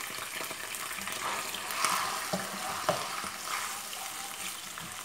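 Garlic-ginger paste sizzling in hot ghee in a non-stick wok, a steady frying hiss. It is stirred with a slotted spatula, with a few light knocks against the pan about two to three seconds in.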